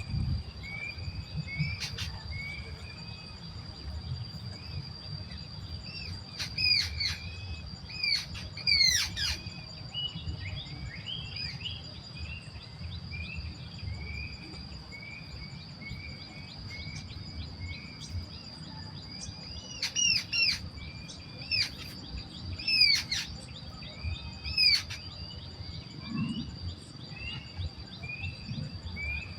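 Birds calling: a steady series of short, repeated chirps, about two a second, broken by clusters of louder, sharp downward-sweeping calls, over a steady high insect drone and a low rumble.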